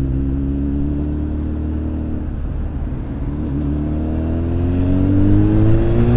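Honda X4's inline-four engine running steadily, then accelerating from about halfway through, its pitch and loudness rising smoothly.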